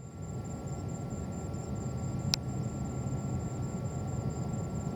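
Distant jet airliner engines, a steady low rumble that builds slowly, with one sharp click about two seconds in.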